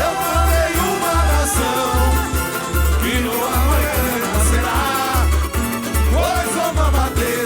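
Samba-enredo played live by a samba school: the bateria's surdo bass drums beat a steady rhythm under sung and played melody lines.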